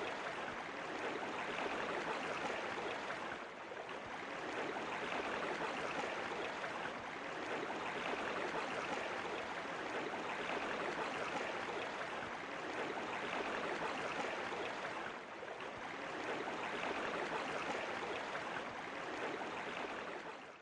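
Steady rush of falling water, dipping briefly twice and fading out at the very end.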